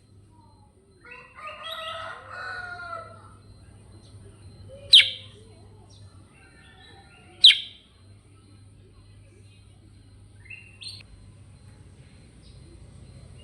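Kutilang sutra (bulbul) song: a warbling phrase of about two seconds, then two loud, sharp calls a couple of seconds apart, and a pair of short faint chirps near the end.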